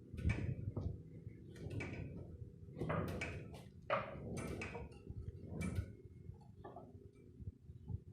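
A string of irregular knocks and clunks, about nine of them over several seconds, over a low steady hum.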